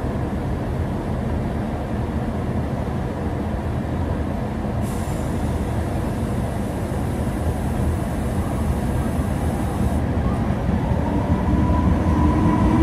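Trenitalia electric locomotive and regional train standing at the platform, a steady low rumble of its running equipment. Near the end a second train approaches on the next track and the sound grows louder, with a whine.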